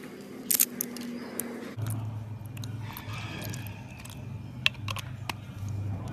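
Slime being handled: sharp sticky clicks and crackles, with a few loud snaps early on and another near the end, over a low steady hum that comes in about two seconds in.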